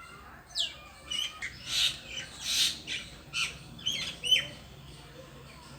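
A bird calling: a run of about ten short notes over some four seconds, mixing quick falling whistles with harsher, noisy notes.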